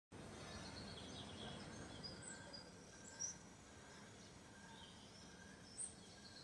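Faint, scattered bird chirps over quiet indoor room tone, with a soft knock about three seconds in and a short click near the end.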